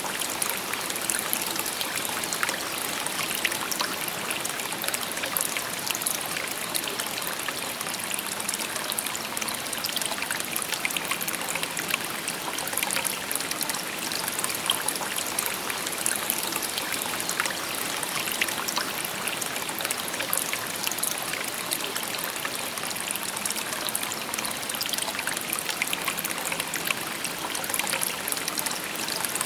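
A shallow river stream babbling steadily, water trickling and splashing over stones.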